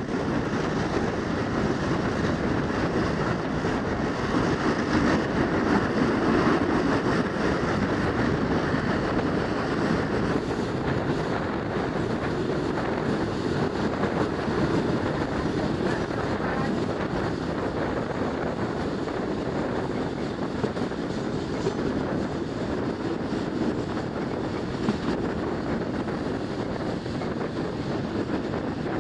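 Steady running noise of a local passenger train on the Malayan Railway's East Coast line, heard from on board: wheels rolling and rattling on the rails at speed.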